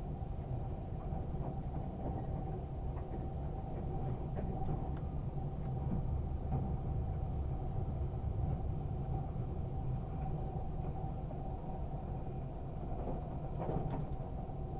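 Passenger train running at speed, heard from inside the carriage: a steady low rumble with a faint steady hum above it, and a few light clicks near the end.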